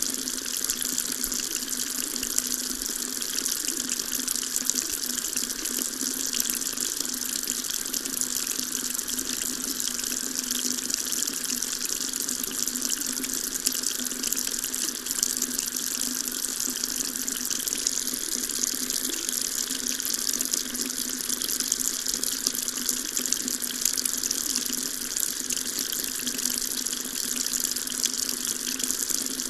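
Water tap running steadily, a continuous stream splashing into a sink with an even hiss.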